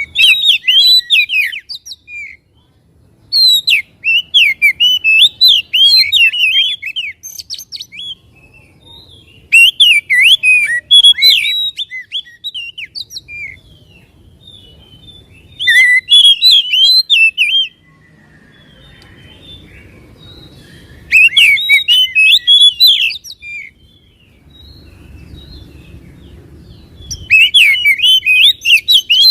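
Oriental magpie-robin (kacer) singing in six loud bursts of rapid, varied whistled phrases, each lasting one to three seconds with pauses of a few seconds between.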